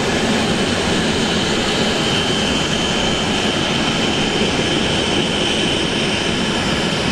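Jet aircraft engine running: a steady, loud roar with a constant high whine over it.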